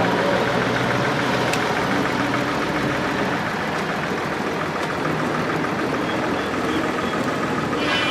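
Truck engine idling steadily. A high-pitched beeping tone starts near the end.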